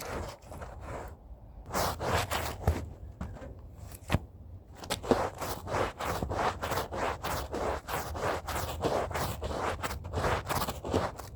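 Stiff hand brush scrubbing rug fibres in rapid back-and-forth strokes. It starts with brief pauses, then settles into a steady rhythm of about three to four strokes a second.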